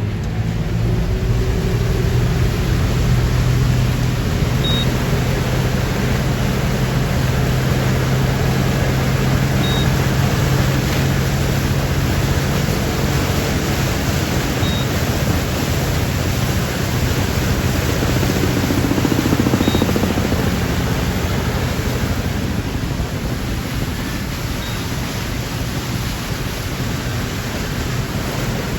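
Motorboat under way: a steady low engine hum under loud rushing noise of wind and water, the hum easing somewhat in the last several seconds.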